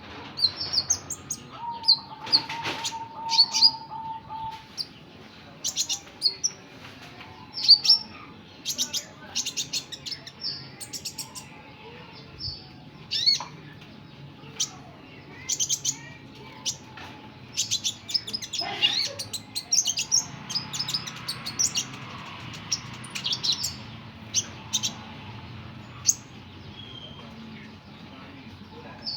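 Sunbird giving short, sharp high chirps and twitters, repeated in irregular bursts.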